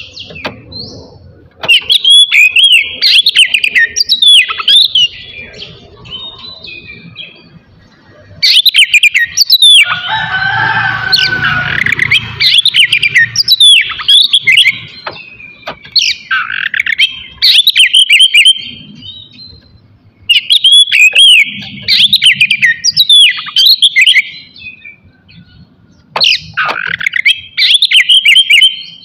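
Oriental magpie-robin (kacer) singing loud, rapid, varied whistled phrases in bursts of a few seconds with short pauses between them. A harsher, rasping stretch comes about ten seconds in.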